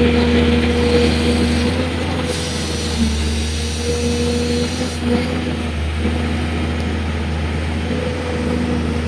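Excavator's diesel engine running steadily, a low drone with a steady pitched tone that drops out briefly and comes back a few times.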